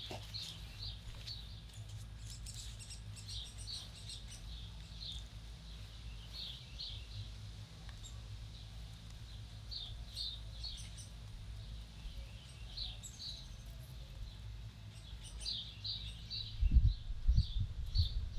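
Small birds chirping: short high chirps, often in quick pairs, repeating over a steady low rumble. Near the end, loud low buffeting comes in.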